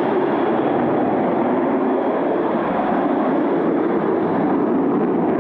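Sukhoi Su-30MK fighter's twin jet engines, a steady jet engine noise as the aircraft flies its display manoeuvre.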